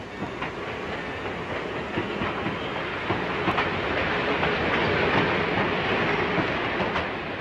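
Steam passenger train rolling along the rails: a steady rumble with scattered clicks of wheels over rail joints, growing louder toward a peak about five seconds in and easing a little near the end.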